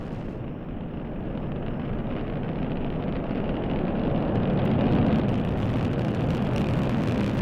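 Delta IV Heavy rocket's three booster cores at full power during the climb just after liftoff: a deep, rumbling launch roar that grows steadily louder, peaking about five seconds in.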